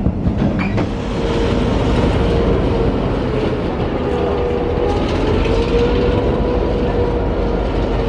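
Passenger train running along the track, heard from on board: a steady rumble with a continuous whine that wavers slightly in pitch, and a few sharp clicks in the first second.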